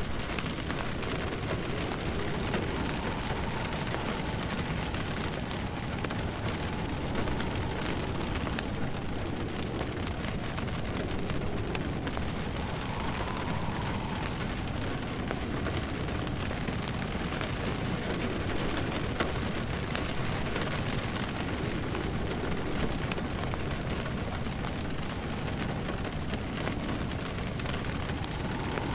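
Steady rain falling, mixed with a crackling wood fire whose small sharp pops are scattered throughout.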